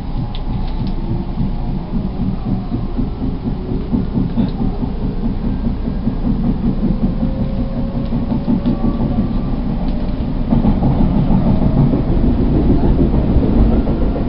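Odakyu 2000 series electric train running, heard from inside the car: a dense rhythmic pounding from a badly flat-spotted wheel over the rumble of the wheels on the rails. The inverter-driven traction motors whine in several tones that slowly rise in pitch as the train gathers speed, partly covered by the air conditioning, and the whole grows louder about two-thirds of the way through.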